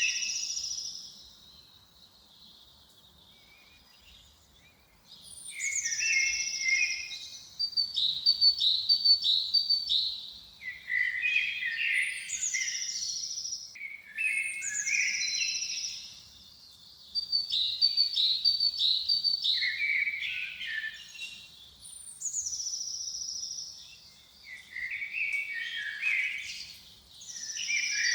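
A songbird singing the same song phrase over and over. Each phrase opens with a high falling note, runs into a string of quick high chirps and ends in lower trills. The phrases come every few seconds after a pause of a few seconds near the start.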